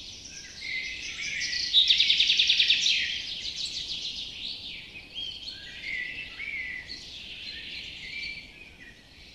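Birds chirping and singing in overlapping high-pitched calls. The loudest is a rapid trill of about a dozen notes a second, from about two seconds in to about three seconds in.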